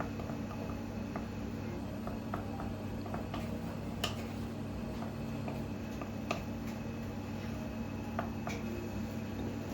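Scattered light clicks and taps of tableware over a steady low room hum, the sharpest about four, six and eight seconds in.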